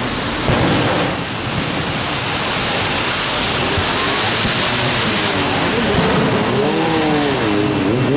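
Fireworks display: a steady rush of noise with a sudden jump in loudness about half a second in, and tones that glide up and down in the second half.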